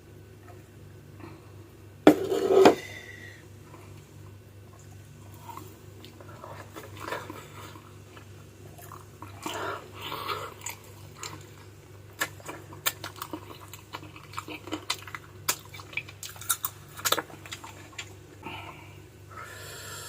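Close-miked eating of adobo chicken feet: chewing, sucking and lip smacks, with many quick sharp clicks in the second half. A loud sudden noise about two seconds in, and a steady low hum underneath.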